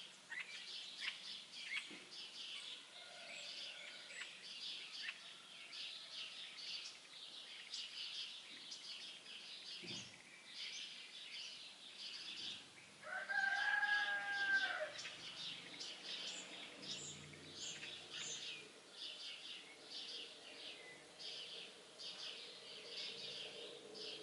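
Many small songbirds chirping and singing together without a break. About 13 seconds in, one louder, drawn-out call from a larger bird stands out for a second or two.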